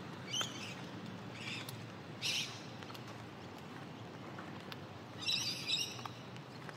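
Birds chirping in short calls several times, loudest in a cluster near the end, over a steady low outdoor background. Faint clicks of stiletto high heels step on wet concrete between the calls.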